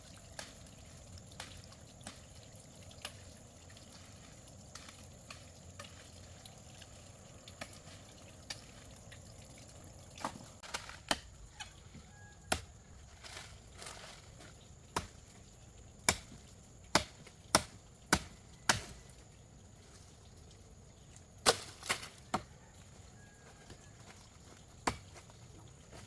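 Sharp blows of a hand tool, a series of knocks. They are sparse and soft at first, then louder, with a run of about five strikes roughly half a second apart past the middle and a short cluster of three soon after.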